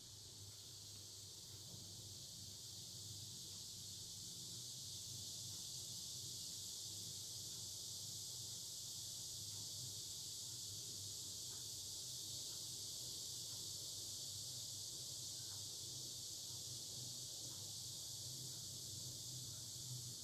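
Chorus of cicadas: a steady, high, hissing buzz that swells a little over the first few seconds, heard faintly.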